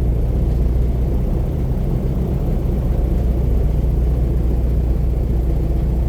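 Airboat engine and air propeller running at a steady cruise, a loud, even drone with a low hum underneath.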